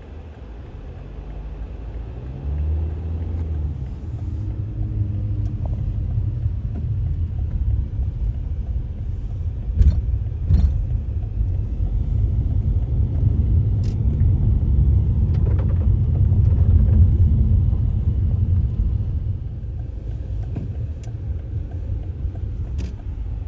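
Car driving, with a steady low road and engine rumble heard from inside the cabin and a few sharp clicks and knocks.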